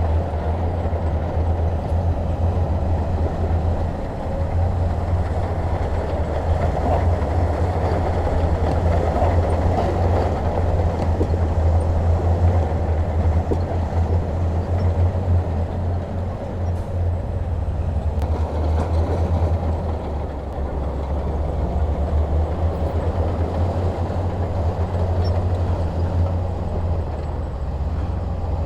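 Heavy diesel machinery running steadily under load, a deep engine drone with a rough rumble over it.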